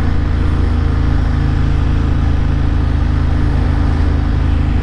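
Motorcycle engine running at a steady pitch, with no rise or fall in revs.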